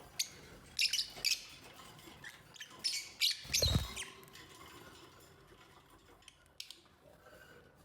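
Lovebirds giving short, squeaky high-pitched chirps in quick clusters, with a soft low thump near the middle.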